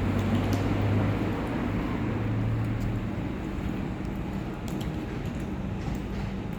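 Steady street background noise with a vehicle engine humming for the first three seconds, then easing off, and scattered faint small ticks.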